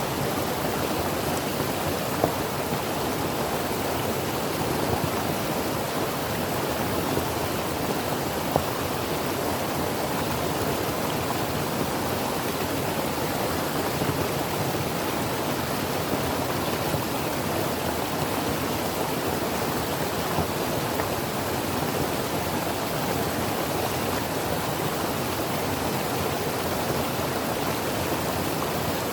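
A creek flowing over rocks: a steady, even rush of running water, with a couple of faint splashes or ticks.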